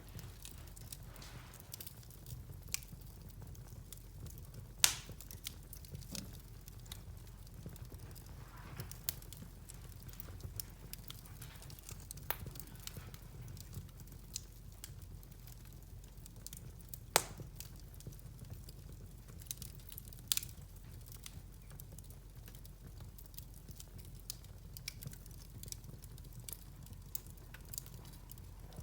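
Wood fire in a fireplace crackling softly, with scattered small snaps and a few sharp, louder pops, over a low steady hum.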